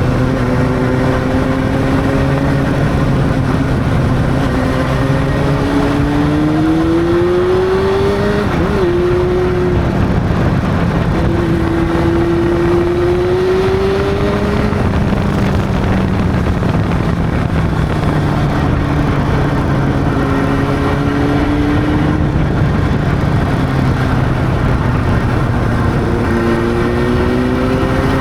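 Honda CB600's inline-four engine pulling along on the road. Its note climbs under throttle, drops back at shifts or easing off, and climbs again near the end, over a steady rush of wind and road noise.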